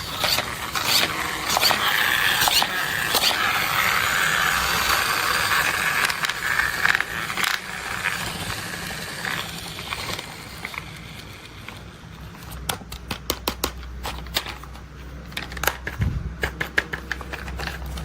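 Toy construction vehicles being handled: a rustling scrape for about the first ten seconds, then a run of quick clicks and clatters.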